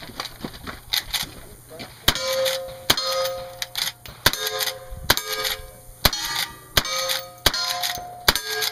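A steady string of gunshots, about one every three-quarters of a second, each followed by the ringing clang of a struck steel target.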